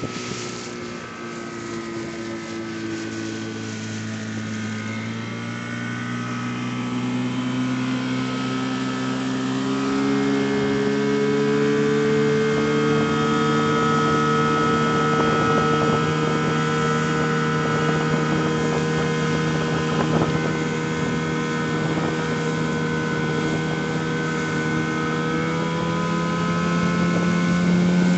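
Evinrude (Johnson) 9.9 hp outboard motor running under way on an inflatable boat. Its note climbs gradually over the first ten seconds or so as it picks up speed, then holds steady.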